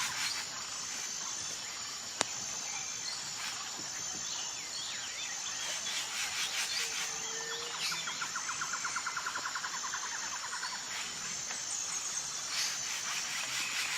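Woodland ambience: a steady high insect trill, with a rapid bird trill in the middle and a short low call just before it. A single sharp click about two seconds in.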